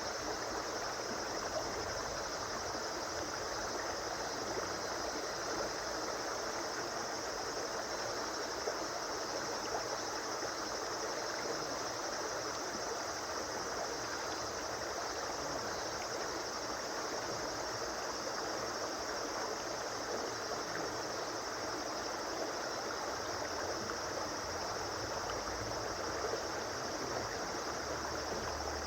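A river flowing: steady rushing and gurgling of running water, even in level throughout.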